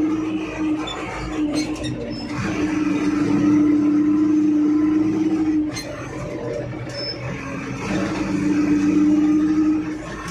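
JCB 3DX backhoe loader's diesel engine running. Its note grows louder and steadier in two long stretches, the second starting about eight seconds in, and drops back between them, as the engine takes load and eases off.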